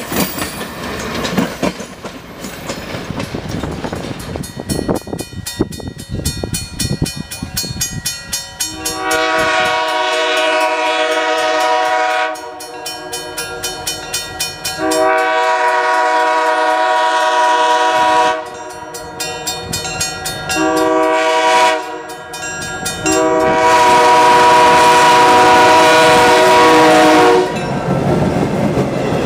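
EMD GP7 locomotive's Nathan K3L air horn blowing a chord in the grade-crossing pattern: long, long, short, long. Before the horn starts, about nine seconds in, the train's wheels click rhythmically over the rail joints, and they go on under the horn.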